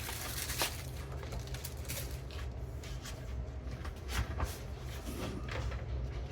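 Scattered light clicks and taps of small parts and tools being handled on a workbench, over a steady low hum.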